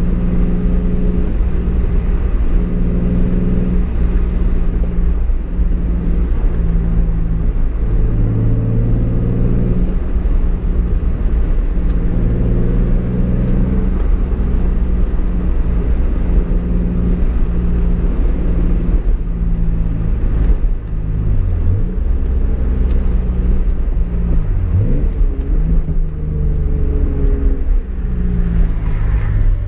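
Toyota Supra's straight-six engine heard from inside the cabin while driving, its note rising and falling in pitch several times as the car is taken through the gears, over a steady low road rumble. A short rising rev comes near the end.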